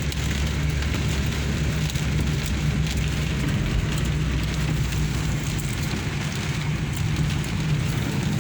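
Steady heavy rain hissing, with a constant low hum underneath.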